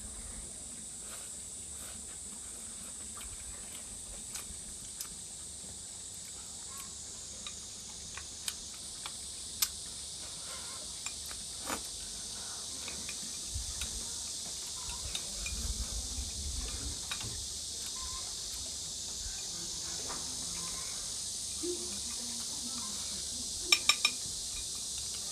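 Scattered small clicks of chopsticks and tableware during a meal, with three quick, louder clicks near the end, over a steady high hiss.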